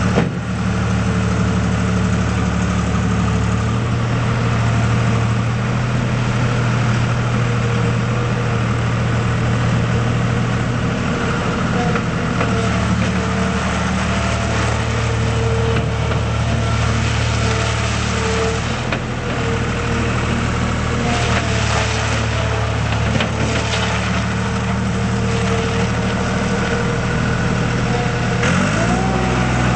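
2005 John Deere 240 skid steer loader's diesel engine running steadily at idle. Near the end the engine revs up and its pitch rises.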